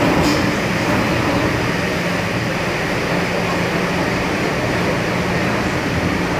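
MTR M-Train electric multiple unit running at speed through a tunnel, heard from inside a car: a steady rumble of wheels on rail. A low hum joins in about halfway through.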